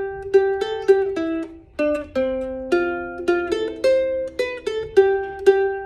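Soprano ukulele in high-G tuning playing a simple melody picked out note by note, a few plucked notes a second, with several notes left ringing together in the middle.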